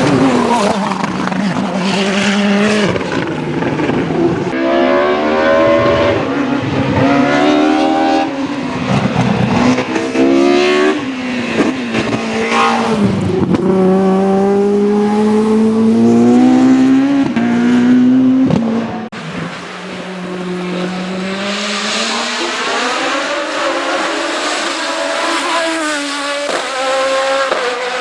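Race car engines at full throttle, each rise in pitch dropping back sharply at a gear change, several upshifts in quick succession. The sound changes abruptly twice, about four and a half seconds in and again near nineteen seconds, as one car gives way to another.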